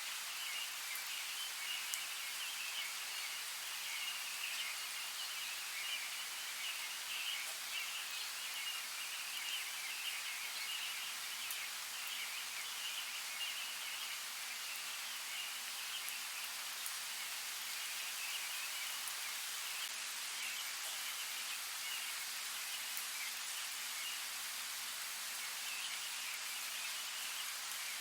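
Light rain falling steadily: an even, high hiss with scattered fine drop ticks, over a continuous high, fluttering chirp.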